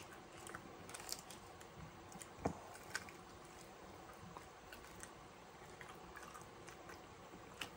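A person eating chicken wings close to the microphone: faint, scattered chewing and biting clicks, with one louder click about two and a half seconds in.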